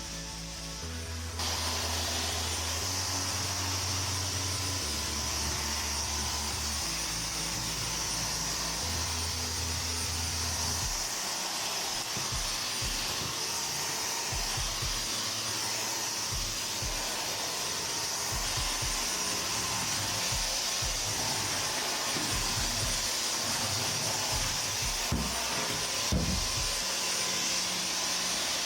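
Dyson Omni-Glide cordless stick vacuum switched on about a second and a half in, then running steadily with a hiss of air and a faint high motor whine. A couple of light knocks come near the end.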